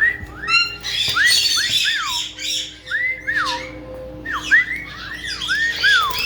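Caiques calling: about a dozen short whistles that rise and fall, mixed with harsh squawks.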